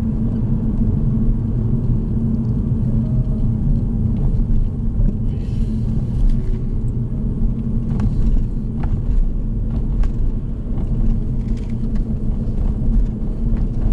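Car driving, with steady engine and road-tyre rumble heard from inside the cabin and a few faint ticks.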